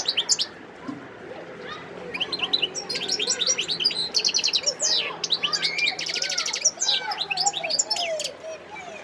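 Wild-caught European goldfinch singing: a fast, varied run of high twittering notes and trills, with a buzzy rattle about six seconds in.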